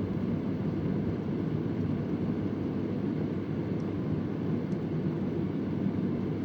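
Vintage Convair oscillating electric fan running with a steady, low, even whoosh of moving air. Two faint ticks come a little past the middle.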